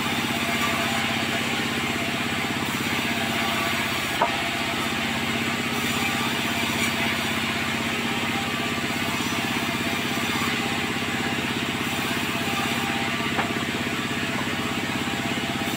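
Sawmill machinery running steadily with an engine-like drone, broken by two short sharp knocks, one about four seconds in and one near the end.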